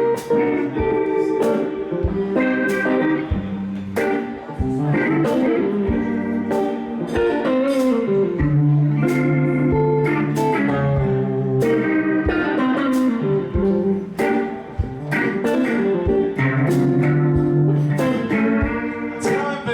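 Blues band playing an instrumental lead-in, electric guitar over a steady beat, before the vocal of the song comes in.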